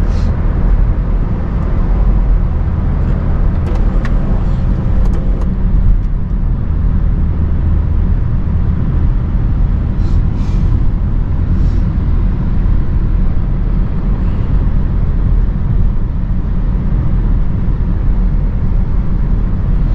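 BMW 335i's N55 turbocharged 3.0-litre straight-six exhaust, heard through a microphone at the tailpipe, running steadily with a deep low rumble as the car cruises.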